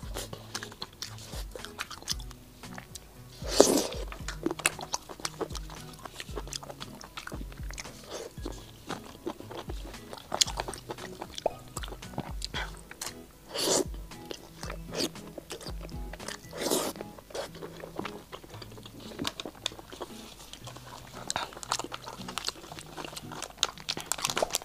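Close-miked mukbang eating of spicy stir-fried seafood: biting into and chewing shrimp, with dense crackling and crunching and the rustle of plastic gloves handling shells, and a few louder bites. Soft background music plays underneath.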